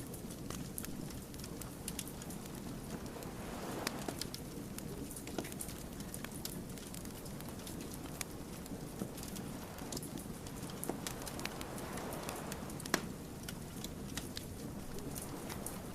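Wood fire crackling: irregular sharp pops and snaps of burning logs over a steady low rumble of the flames, which swells briefly about four seconds in and again near twelve seconds.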